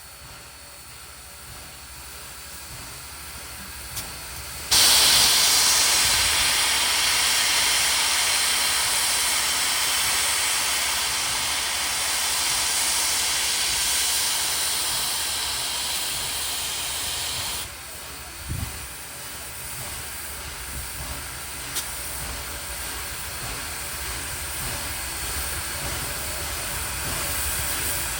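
Steam locomotive venting steam: a loud hiss that comes on suddenly about five seconds in, holds for about thirteen seconds and cuts off sharply, over a steady low rumble.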